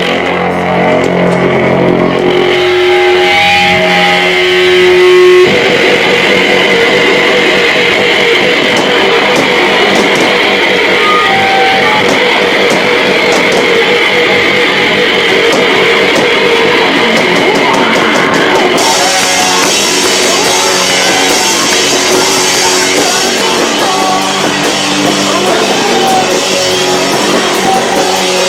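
Live rock band with electric guitars playing very loud, overloading the camcorder's microphone. Held guitar chords open, and the full band comes in about five seconds in; the cymbals get brighter about two-thirds of the way through.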